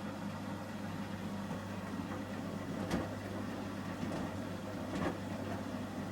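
Samsung Series 5+ front-loading washing machine in the Ecobubble detergent phase of a shirts wash: a steady motor hum with a few sharp knocks about two seconds apart as the drum turns the load.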